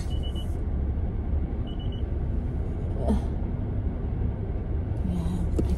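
Car engine idling, heard from inside the cabin as a steady low rumble. Two short high electronic beeps sound in the first two seconds.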